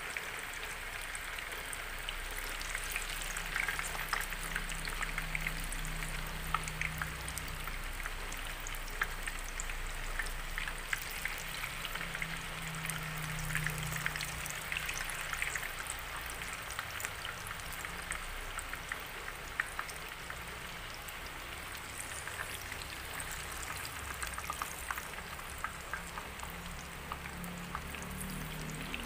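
Slabs of tofu shallow-frying in hot oil: a steady sizzle dotted with many small crackles and pops.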